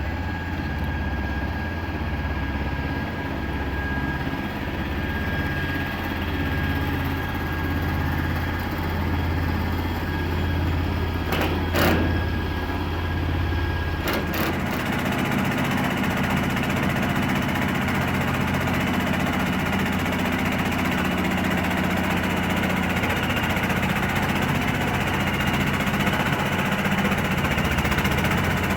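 A 1978 Chevy C60 bucket truck's worn-out 350 V8 running steadily. A couple of sharp clicks come about halfway through, and then the engine's note changes: the deep hum gives way to a busier, higher sound.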